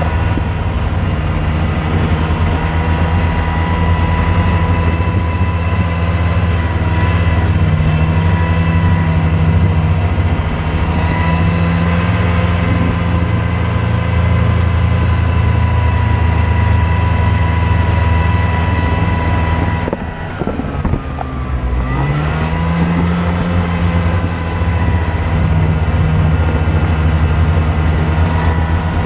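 A vehicle engine running steadily with a low drone and a steady whine. About twenty seconds in it eases off, its pitch falls and then climbs back as it picks up again.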